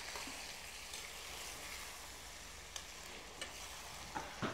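Kapure (goat testicles) frying in masala in a pan, with a steady sizzle and a few clicks of a spatula against the pan near the end.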